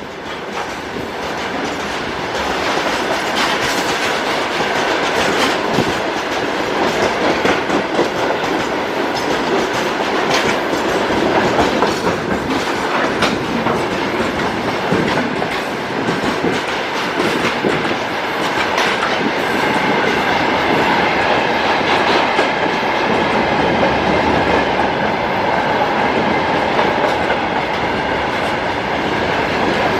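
Long freight train hauled by a VL10U electric locomotive running through the station, its wagons' wheels clattering steadily over the rail joints. The sound swells over the first few seconds as the train comes close, then stays loud.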